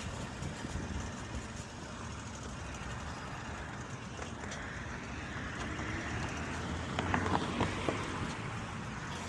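Steady wind and road rumble on the microphone of a rider on a moving e-bike, with a few short rattles or clicks about seven seconds in.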